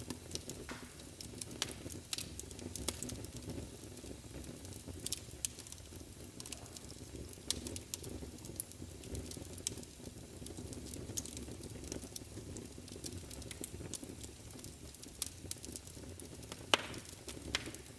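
Wood fire burning in a fireplace: a steady low rumble of flames with frequent sharp crackles and pops, the loudest pop near the end.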